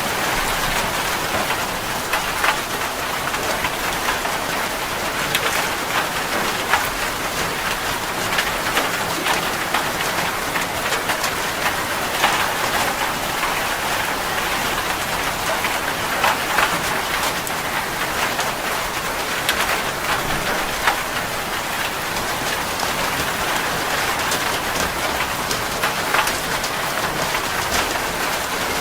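Heavy rain falling steadily on a metal roof: an even hiss with many sharp ticks of single drops striking.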